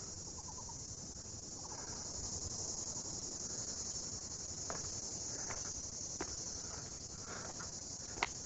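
Steady, high-pitched chorus of insects in subtropical forest, with a few short sharp clicks from halfway on, the loudest near the end.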